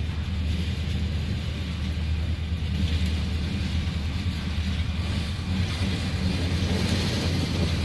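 Diesel locomotive engine, an EMD SD40-2 with a two-stroke V16, running with a steady low rumble as the train moves, getting a little louder toward the end.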